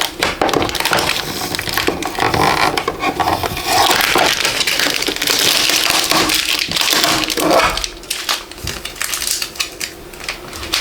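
Packaging being handled and unwrapped: a dense crackling and rustling with many small clicks, quieter for the last few seconds.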